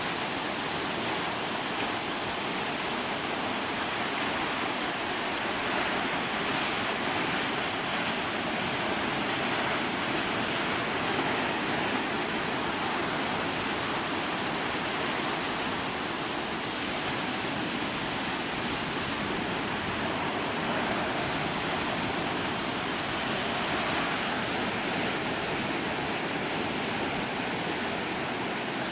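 Ocean surf washing onto a sandy beach: a steady rush of waves that swells and eases every few seconds.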